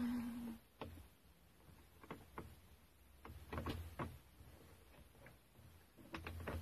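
Scattered light clicks and knocks, irregularly spaced, typical of small parts and tools being handled on a workbench, with a short low tone at the very start.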